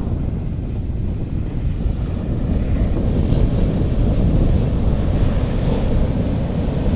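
Sea waves washing onto a beach, with wind rumbling steadily against the microphone.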